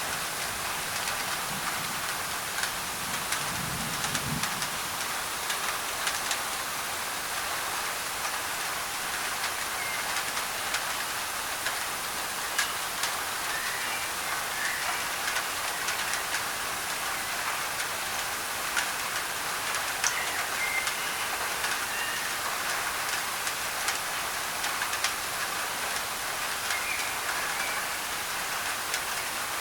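Steady heavy rain drumming on a thin tin roof, a dense hiss with many sharp drop ticks; a low thunder rumble fades out about four seconds in.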